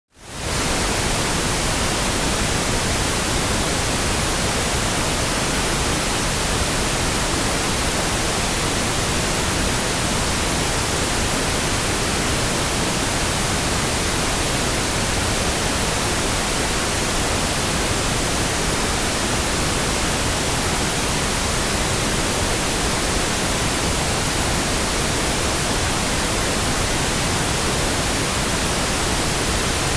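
Steady pink noise, an even hiss across the whole range, fading in quickly at the very start.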